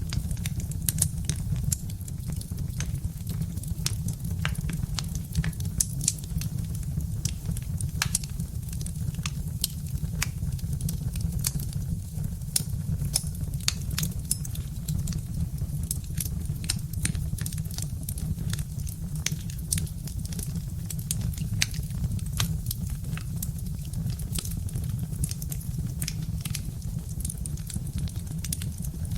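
Birch-wood fire crackling steadily, with many irregular sharp pops and snaps over a steady low rumble.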